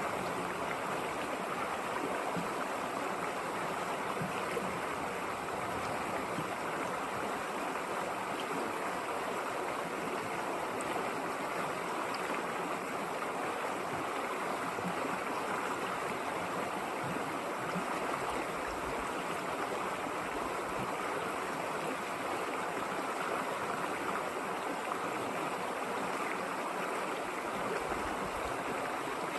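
A river flowing over rocks, a steady even rushing of water.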